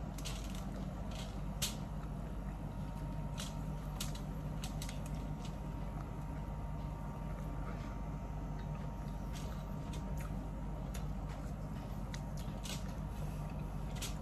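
Close-up mukbang eating sounds: biting and chewing corn on the cob, heard as scattered small clicks and mouth smacks over a steady low hum.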